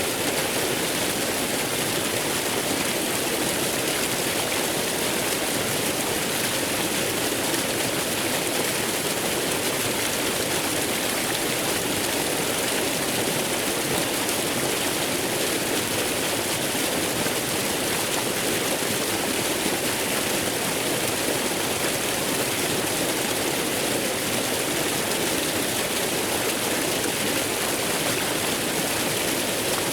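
Waterfall: water falling and rushing in a steady, even roar with no pauses or changes.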